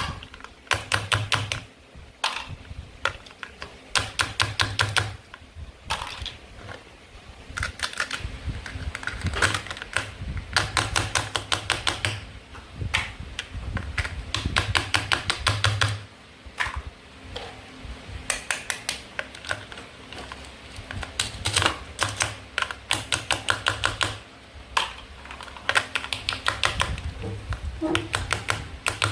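Toy fruit and vegetables being cut, making quick runs of sharp clicks and taps in bursts of a second or two with short pauses between.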